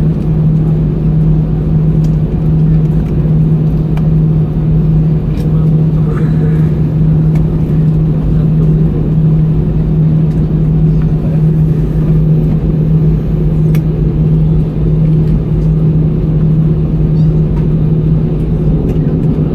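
Airbus A320-200 cabin noise after landing: the engines running at idle under a loud, steady low hum and rumble, with a few faint clicks.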